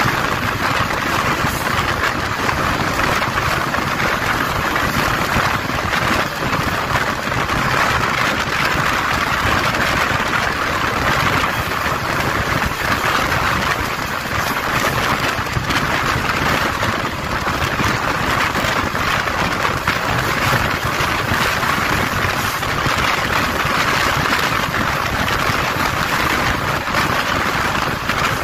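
Egyptian National Railways passenger train running at speed, heard from an open coach window: a steady rush of wheels on rail and passing air.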